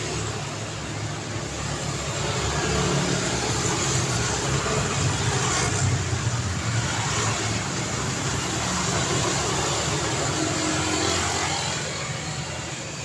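Road traffic: cars going by in a steady wash of engine and tyre noise, building to its loudest in the middle and easing off near the end.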